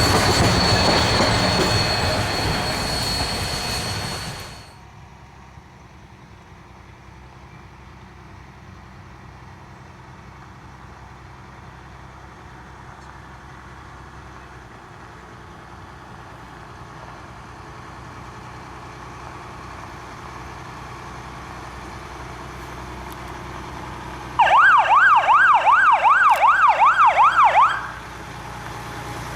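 Steam train running loud with a steady high squeal for about four seconds, then a sudden cut to a low rumble that slowly builds. About twenty-four seconds in, a siren yelps rapidly up and down for about three seconds and stops.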